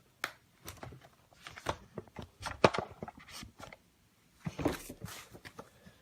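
A cardboard model box being opened and its flaps handled: irregular taps, knocks and rustles, the sharpest one about two and a half seconds in.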